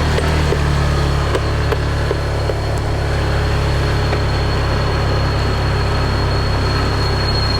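Small motorbike engine running steadily while being ridden, with a heavy low rumble of wind on the microphone. A thin, steady high-pitched tone runs through it.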